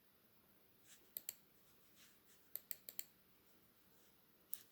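Sharp computer mouse clicks, about seven, mostly in quick pairs, over near-silent room tone.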